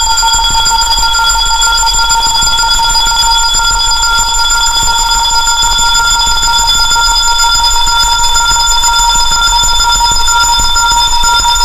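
Electronically generated frequency track: several steady high-pitched tones sounding together over a hiss and a low hum, drifting slowly up in pitch.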